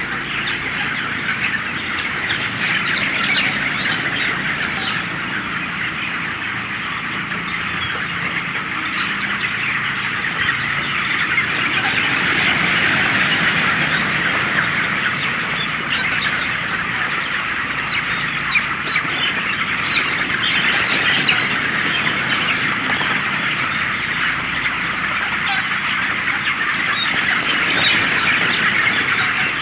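A large flock of broiler chickens, about three and a half weeks old, calling all at once: a dense, steady chorus of overlapping peeps and clucks with no pause.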